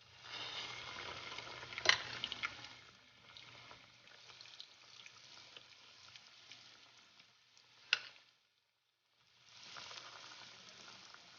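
Chicken cheese balls deep-frying in hot oil, sizzling and crackling. There is a sharp click about two seconds in and another about eight seconds in, and the sizzle drops out for about a second before resuming.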